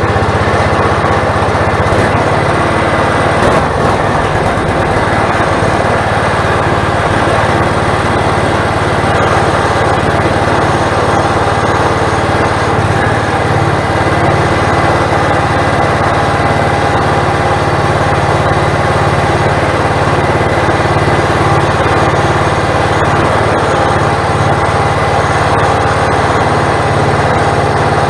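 Log splitter's small engine running steadily, driving its hydraulic pump.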